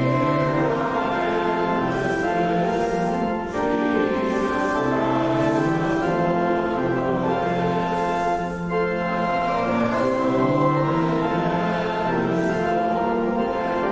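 Congregation singing a hymn in phrases of long held notes, accompanied by a church organ.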